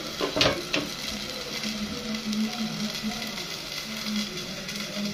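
Chopped tomatoes sizzling steadily in a stainless steel pot, with two short sharp knocks near the start.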